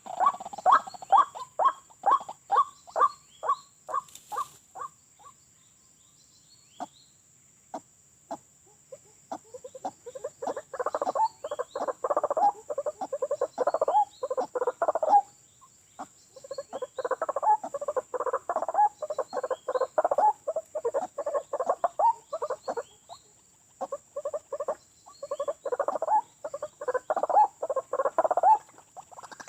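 White-breasted waterhen calling with repeated croaking notes. A quick run of evenly spaced notes comes first; after a pause, three long bouts of dense, rapid croaking follow, each lasting several seconds.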